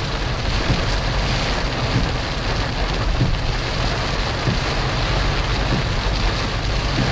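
Rain falling steadily on a moving car, over the low, even rumble of the car driving on a wet road.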